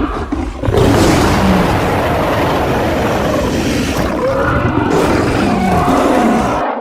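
Sound-designed roar of a fictional sabre-toothed bear, layered from grizzly bear, black bear and smilodon roars. It is one long roar that grows louder about a second in and cuts off sharply near the end.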